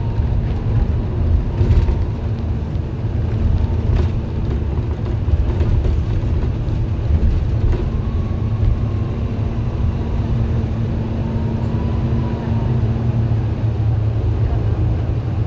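MAN A91 bus engine running on the move, with the loud radiator fan drone noted on this bus and a steady hum. Two faint, brief squealing tones come about eight and twelve seconds in.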